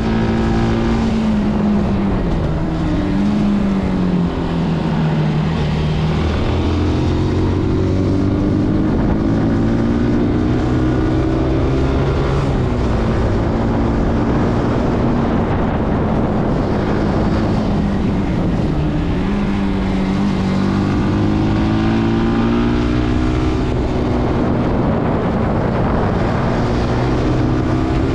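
Zontes C125 125 cc motorcycle engine under way, its pitch dropping as it slows early on and then climbing in long pulls through the gears, with brief dips at the shifts. Wind rushes past the microphone throughout.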